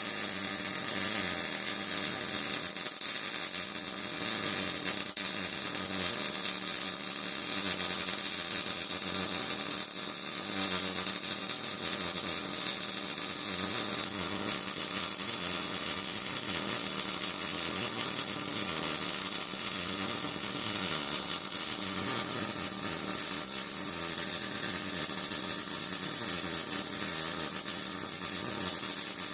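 MIG welder arc burning steadily as a bead is run on steel plate: a continuous sizzling hiss without a break.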